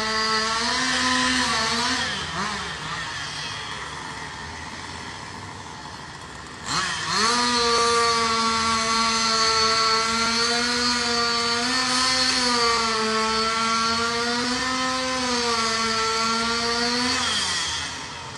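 Two-stroke chainsaw running at full throttle with a slightly wavering pitch. It drops back about two seconds in, revs up sharply again about seven seconds in, holds high for about ten seconds, then falls away near the end.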